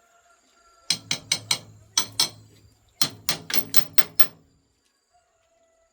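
Hammer blows on a part of a rice separating machine under repair: about a dozen sharp strikes in two quick runs, each with a short ring after it.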